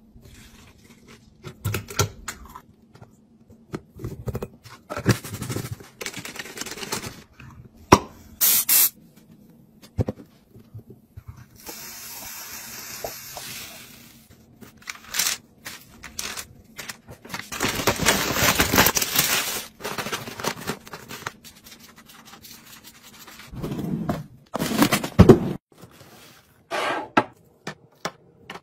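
Food containers and packaging being handled: a run of light clicks, taps and knocks, with a steady hissing rustle about twelve seconds in and a louder, longer one a few seconds later.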